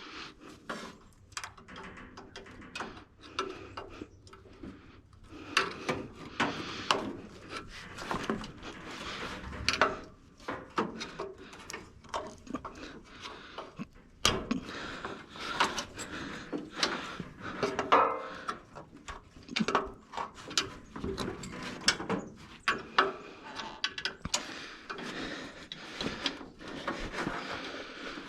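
Hand tools working on metal fittings: irregular clicks, knocks and scraping as parts of the turbo setup are worked loose.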